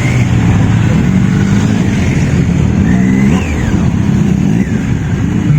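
Engines of passing sports cars and motorcycles running, with one revving up and easing off about two to three seconds in.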